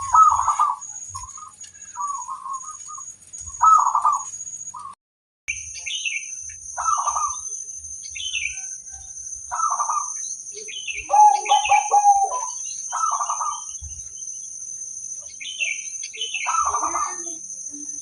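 Zebra dove (perkutut) singing, repeated bubbling coo phrases in short bursts, with smaller birds chirping higher in between. The audio cuts out briefly about five seconds in.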